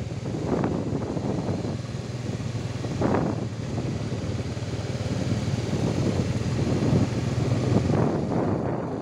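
Strong sea wind buffeting the microphone in gusts, over a steady low drone.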